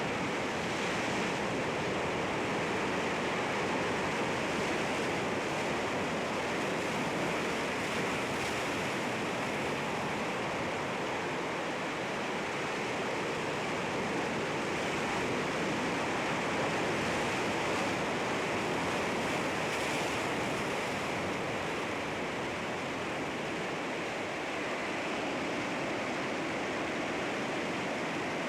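Sea waves washing against rocks, a continuous surf noise with gentle swells in loudness.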